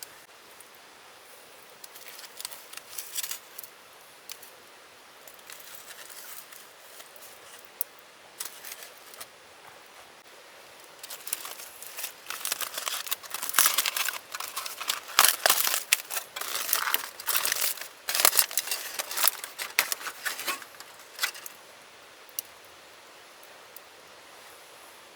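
Crinkling and crumpling of packaging or foil being handled, in irregular bursts that build to their loudest in the middle and stop a few seconds before the end. A faint steady hiss lies underneath.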